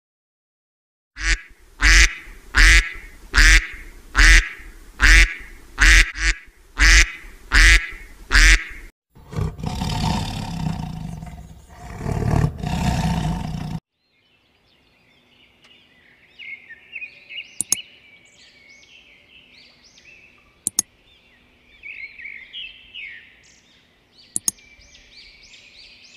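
A run of about ten loud animal calls, one every 0.8 s or so, then a rough noisy call lasting about five seconds. After that comes quieter twittering and chirping of birds, broken by three sharp clicks.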